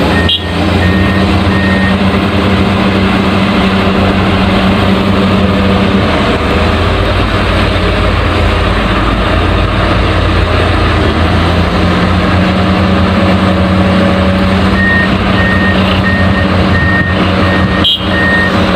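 Diesel engine of an excavator running steadily under load, with a backup alarm beeping at an even pace for the first couple of seconds and again near the end.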